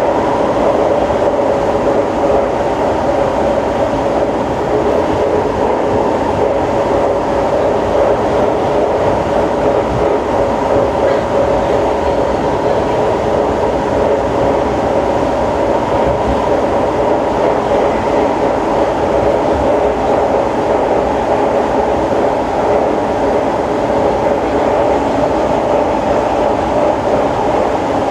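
Siemens C651 metro train running at a steady speed, heard from inside the car: a loud, even running noise of wheels on rail with a steady hum in it.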